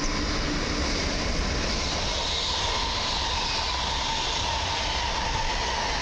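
PKP Intercity Pendolino (ED250) high-speed electric trainset passing through the station at speed: a steady rush of wheels on rail and air, with a faint high whine sinking slowly in pitch.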